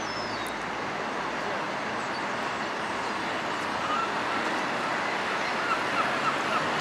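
Steady wash of outdoor noise, with a bird giving a rapid series of short, bright chirps from about four seconds in.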